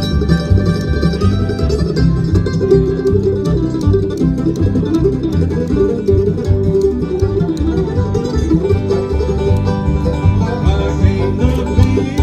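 Bluegrass band playing, banjo to the fore with guitar, over a steady bass beat.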